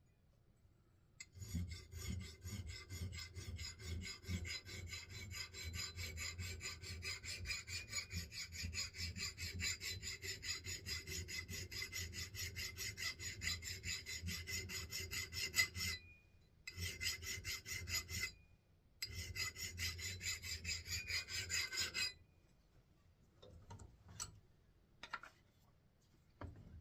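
Steel hand file scraping in quick, even strokes along the thin bit of an axe head, sharpening the edge and taking off the burr. It stops briefly twice and ends about 22 seconds in, leaving a few faint ticks.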